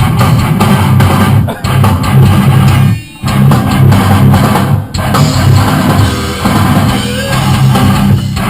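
A rock band plays heavy rock: electric guitar over a drum kit. The music breaks off for a moment about three seconds in, with shorter breaks around one and a half and five seconds.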